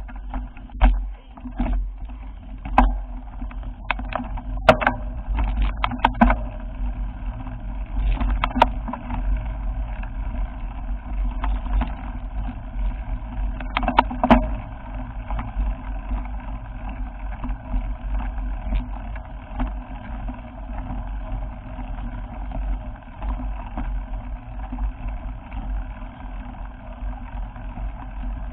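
Steady low rumble of a moving vehicle, with a run of sharp knocks and rattles in the first half that then gives way to an even rumble.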